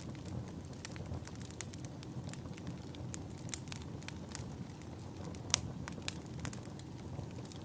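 Wood fire burning in a fireplace: a steady low hiss with frequent irregular crackles and pops, one sharp pop louder than the rest about five and a half seconds in.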